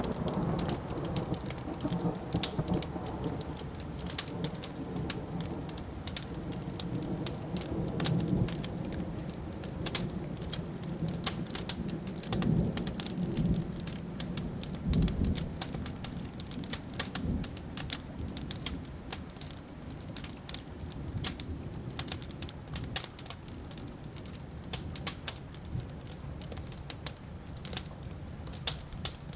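Wood fire crackling, with sharp pops and snaps throughout, under a long rolling thunder rumble that swells a few times in the first half and dies away about halfway through.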